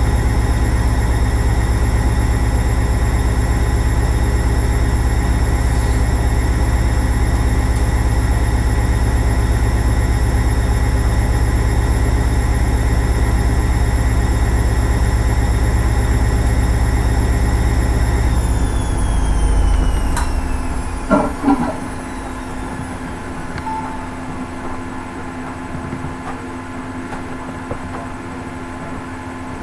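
Hoover Ecologic 800 automatic washing machine running at speed with a steady motor whine and hum. About eighteen seconds in, the whine falls in pitch as the drum slows down, with a few knocks. It then settles to a much quieter steady hum.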